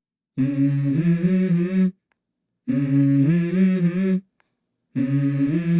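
A voice humming a short melody, the same phrase stepping up from a lower to a higher note three times, with brief silent gaps between the phrases.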